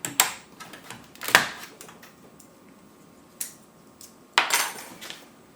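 Hard plastic clicks and clattering of Amiga keyboard keycaps being worked at and handled: a few separate sharp clicks, then a longer clatter near the end.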